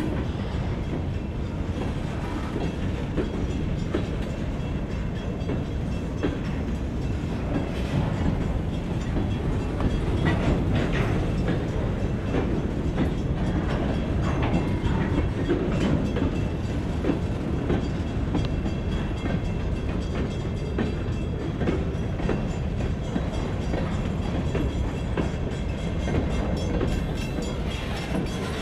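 Freight train of covered hopper cars and boxcars rolling past at close range: a steady rumble of steel wheels on rail with scattered clacks.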